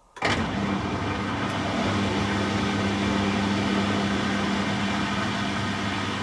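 Beko WTG620M1 washing machine running, starting abruptly a moment in and then holding a loud, steady hum with a constant low tone.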